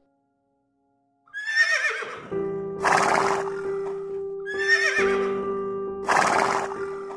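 Horse whinnying twice, each high, wavering call followed by a harsh noisy blast, starting about a second in, with soft piano music entering under it.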